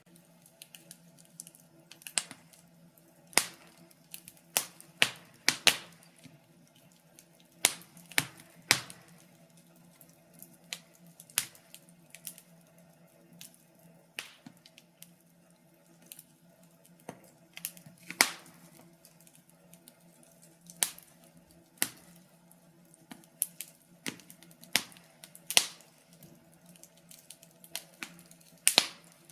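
Wood fire crackling in a fireplace: irregular sharp pops and snaps, some much louder than others, over a faint low steady hum.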